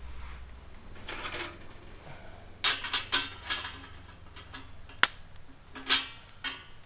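Handling clatter: a run of clicks and light knocks from objects being picked up and set down, with one sharp click about five seconds in.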